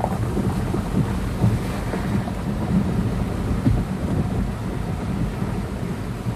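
Heavy mountain rainstorm: a steady rush of rain and running water over a continuous, uneven low rumble.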